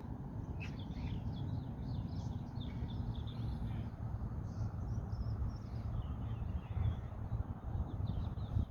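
Small birds chirping and twittering, many short calls overlapping, over a steady low background rumble.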